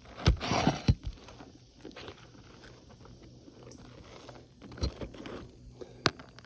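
Scraping and crunching of asphalt shingles being worked by hand during a roof repair, with a few loud knocks in the first second and a single sharp click near the end.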